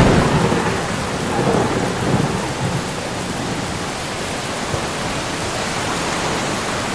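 Steady rain with a low rumble of thunder in the first couple of seconds.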